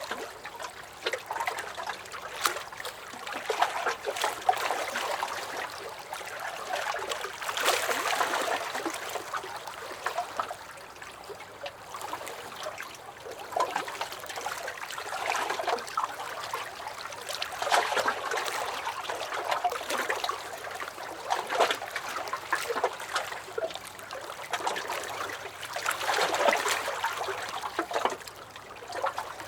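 Small lake waves lapping and splashing against a dock, with little gurgles and splats, swelling and easing every few seconds.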